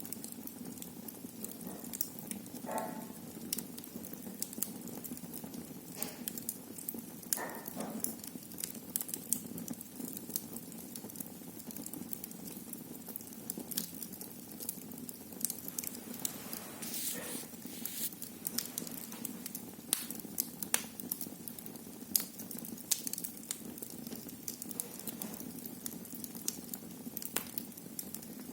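Wood fire burning in a fireplace: frequent sharp crackles and pops over a steady low hiss. There are about three brief higher hisses from the burning logs.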